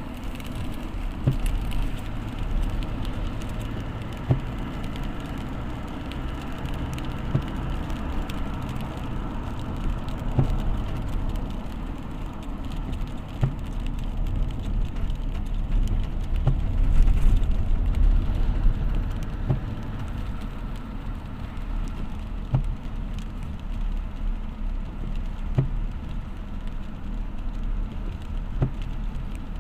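Vehicle travelling in the rain: a steady low engine and road rumble with a haze of rain noise and scattered ticks of drops.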